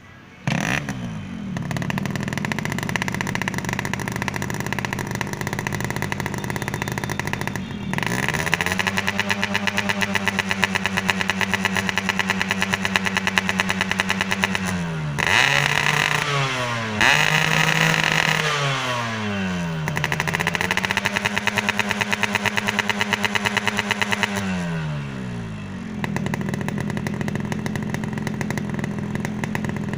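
Two-stroke motorcycle engine breathing through a wet-type expansion chamber exhaust with a modified neck, comes in suddenly about half a second in and is revved repeatedly. The revs are held high several times, with quick blips around the middle, before it settles lower near the end. It pulls cleanly without stuttering.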